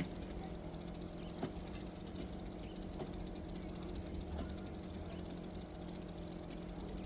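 Makkie 38cc two-stroke chainsaw engine running steadily, with a few faint knocks now and then.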